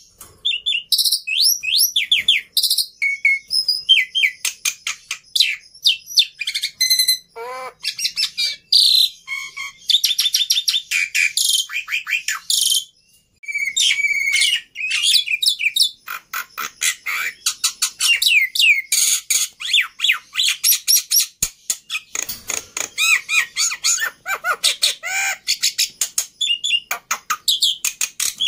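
Black-winged myna (jalak putih) singing: a rapid, almost continuous run of chirps, whistled glides and harsh raspy notes, with one brief break about halfway through.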